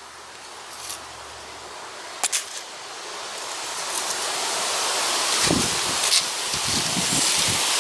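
A gust of strong wind rising steadily, rustling and tossing dry autumn leaves, with a few sharp ticks. From about five seconds in the wind buffets the microphone in low rumbling pulses.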